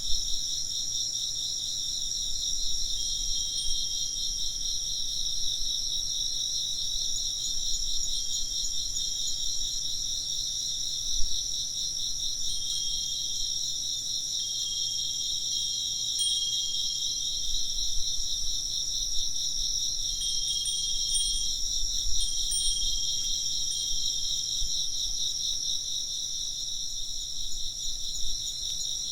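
A dense, steady chorus of chirping insects, a rapid high-pitched trilling. Now and then a Japanese furin wind chime rings faint, clear notes.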